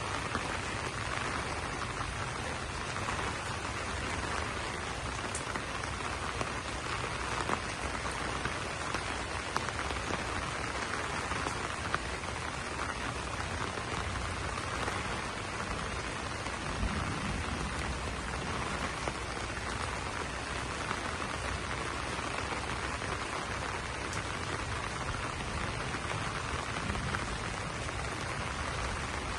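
Steady rain falling on broad banana leaves, an even hiss with occasional louder single drops ticking out of it.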